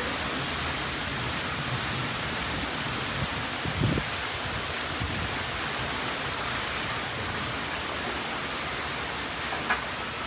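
Steady rain falling, an even hiss, with a short low thump about four seconds in and a brief sharp tick near the end.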